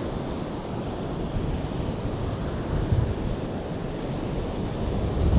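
Ocean surf washing steadily on a sandy beach under strong wind, with wind buffeting the microphone in low rumbling gusts about three seconds in and again near the end.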